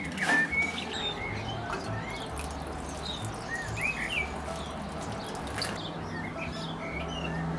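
Small songbirds chirping, short rising and falling chirps coming every second or so.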